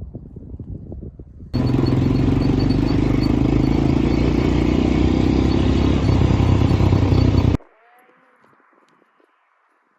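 Dune buggy engine running loud and steady for about six seconds, starting and stopping abruptly, with low wind rumble on the microphone before it.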